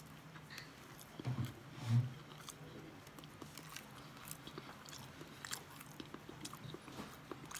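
A person chewing carrot cake close to the microphone, with small wet mouth clicks throughout and two soft low thumps between one and two seconds in, over a steady low hum.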